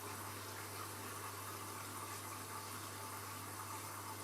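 Washing machine filling with water during its wash cycle: a steady rush of water flowing into the drum, over a constant low hum.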